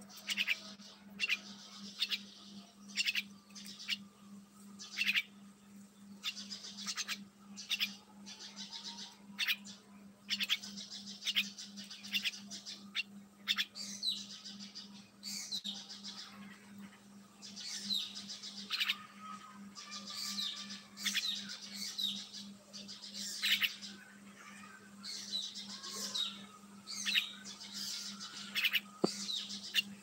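Small caged birds chirping: short, sharp, high chirps repeated rapidly, in busy runs, over a steady low hum.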